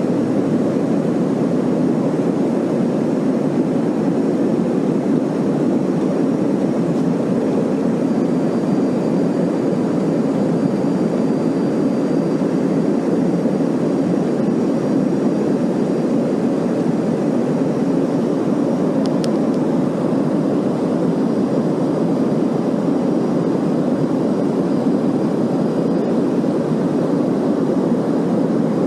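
Airliner cabin noise in flight after takeoff: a steady, even rush of jet engines and airflow. A faint high whine joins it about a quarter of the way in.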